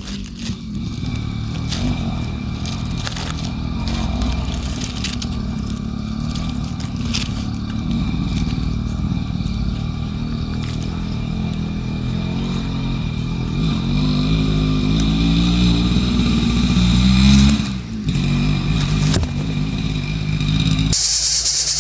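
An engine running steadily, rising in pitch for a few seconds about two-thirds of the way in, then dropping off.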